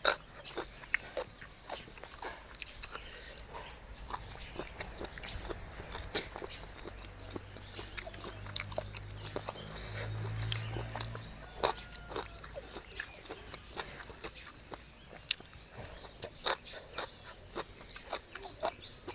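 A person chewing and biting spicy seafood papaya salad close to the microphone, with many short, sharp crunches and clicks spread through the chewing.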